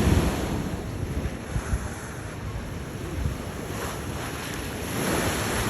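Ocean surf washing in a steady rush, with wind buffeting the microphone in gusty low rumbles.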